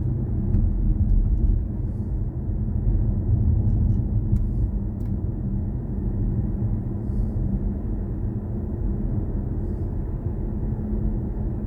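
BMW i4 M50 electric car driving at steady speed: continuous low road and tyre rumble with a steady low hum and no engine note.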